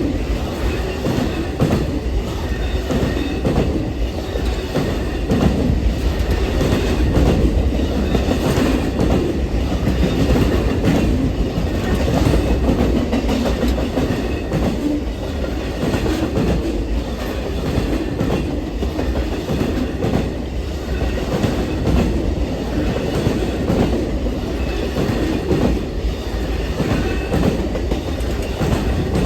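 Amtrak Auto Train's cars rolling past: a steady wheel-on-rail rumble with repeated clicking of wheels over the rail joints.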